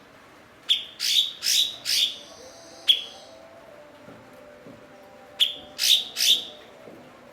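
Cucak cungkok calling in sharp, loud chip notes, each one dropping quickly in pitch. There is a quick run of four about a second in, a single note near three seconds, and three more near the end.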